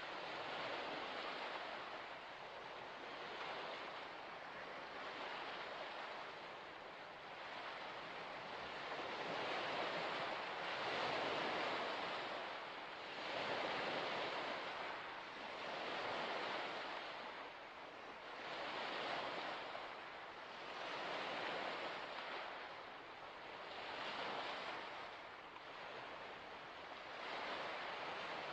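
Small waves washing onto a shore, the hiss of the water swelling and fading every two to three seconds.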